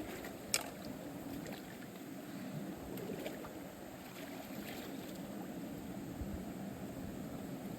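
Muffled underwater sound of a creek heard with the microphone submerged: a low, steady wash with a sharp click about half a second in and a few faint ticks.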